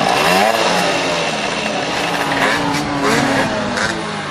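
A pack of 50cc two-stroke racing motorcycles accelerating together, several engines revving at once with overlapping pitches that climb, loudest in the first second.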